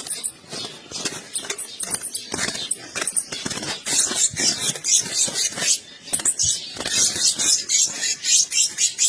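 Pileated finches (cravinas) calling, a rapid jumble of high chips and short clicks that gets busier about four seconds in.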